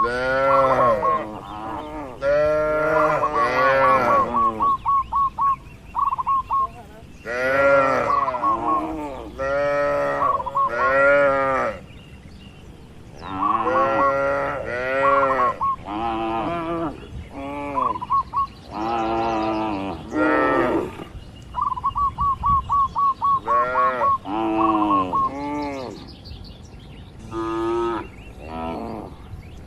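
Cattle mooing over and over, a long series of short calls that each rise and fall in pitch. Between the calls, a fast, high-pitched pulsing trill comes and goes.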